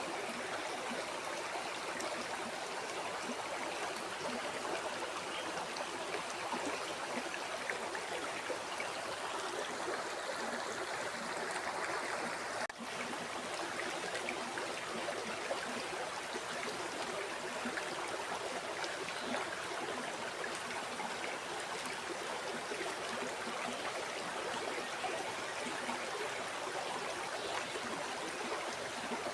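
River water flowing steadily in an even rushing wash, with a momentary dip in the sound a little before the middle.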